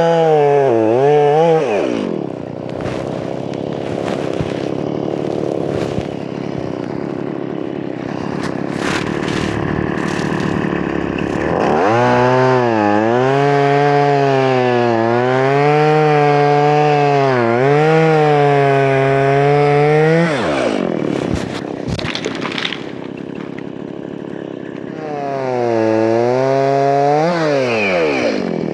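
Two-stroke chainsaw cutting logs: the engine revs high with its pitch wavering as it bogs and recovers in the cut, drops to a lower, quieter run for several seconds, then revs again for about eight seconds. It falls off abruptly, then revs briefly once more and drops back near the end.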